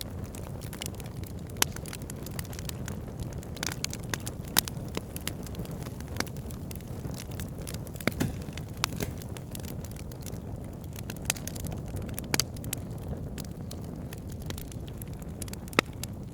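Campfire burning: a steady low rumble of flames with irregular sharp crackles and pops of burning wood, a few of them louder snaps.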